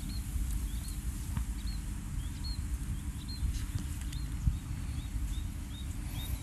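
A small bird repeating one short, high chirp about twice a second, over a steady low rumble.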